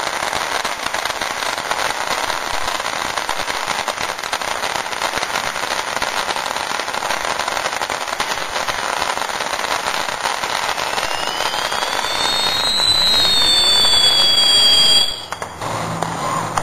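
Consumer fireworks crackling densely and without a break, with two whistles near the end, one rising and one falling in pitch, before the sound cuts off suddenly.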